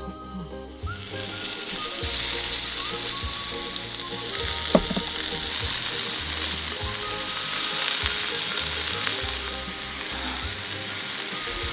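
Food sizzling in a hot electric cooking pot, starting about a second in as it is laid into the pan, with a single sharp knock about five seconds in.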